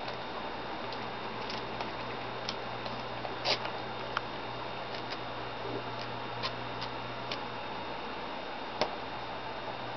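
A paper dollar bill being handled and torn: scattered soft crinkles, ticks and short rips over a steady background hiss and low hum.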